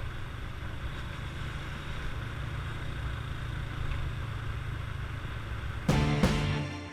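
Motorcycle engine running steadily while riding, a low drone with road and wind noise. About six seconds in, background music comes in.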